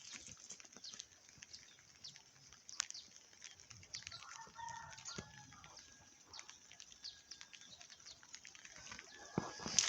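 Rain falling, with many scattered drops ticking close by over a steady hiss. A faint farm-animal call comes about four to five seconds in.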